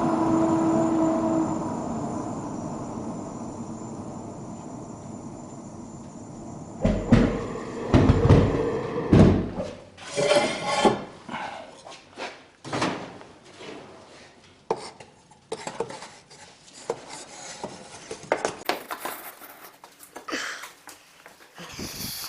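Dishes and pots being handled: a run of irregular clinks and knocks, loudest in the first few, starting about seven seconds in after a steady noise has faded away.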